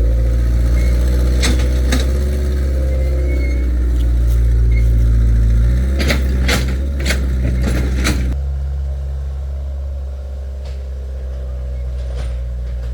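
Excavator engine running steadily, with a few sharp knocks and a cluster of knocks in the middle; after that the engine note drops and runs quieter.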